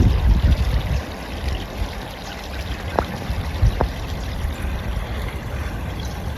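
Steady rush of flowing river water. Two short sharp clicks come about three seconds in, under a second apart.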